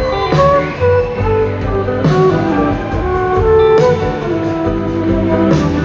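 Live rock band playing a slow instrumental passage with guitar and horns over bass and drums, a drum hit landing about every two seconds.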